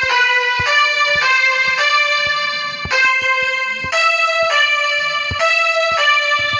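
Electronic keyboard playing a slow melody one note at a time, about nine notes, each held half a second to a second, with a short low knock at the start of each note.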